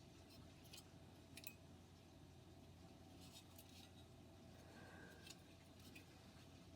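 Near silence: room tone with a few faint, scattered light clicks and taps from small graphics-card parts being handled on the bench.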